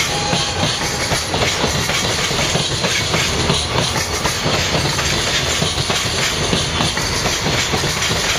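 Freight train rolling past, its wagons' wheels clattering over the rail joints in a steady, continuous run of clicks.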